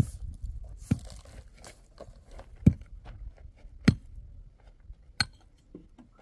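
Sharp knocks at irregular intervals, about five of them, the loudest about two and a half and four seconds in.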